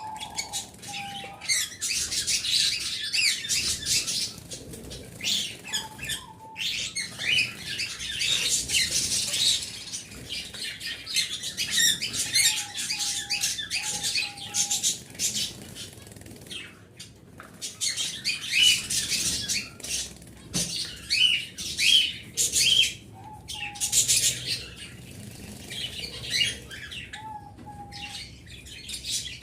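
Small pet birds chattering with a dense stream of rapid high-pitched chirps that stops briefly now and then. Short, lower whistled notes come in about six times.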